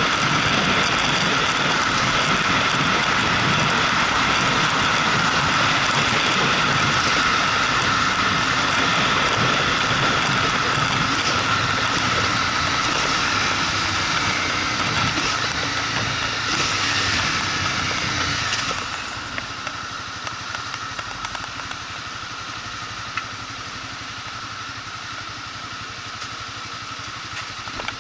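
Motorcycle on the move, its engine mixed with road and wind noise. About two-thirds of the way through, the sound drops to a quieter, steady level.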